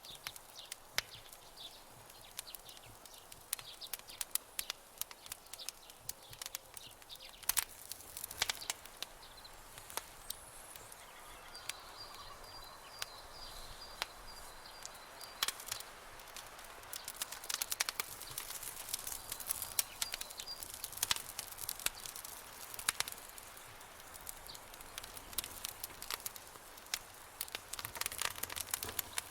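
Campfire crackling, with irregular sharp pops and snaps of burning wood over a soft hiss. A thin, high, steady animal call sounds for a few seconds in the middle and again briefly later.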